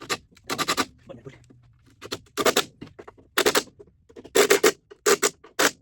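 Ratchet wrench clicking in short, quick strokes, tightening the bolts on the rebuilt baler gearbox housing.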